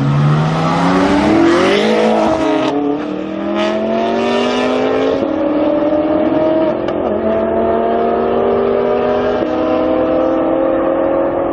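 BMW 1 Series M Coupe's twin-turbo straight-six with an aftermarket exhaust, accelerating hard: engine pitch climbs, drops sharply at an upshift about two and a half seconds in, then climbs slowly and steadily through a long pull.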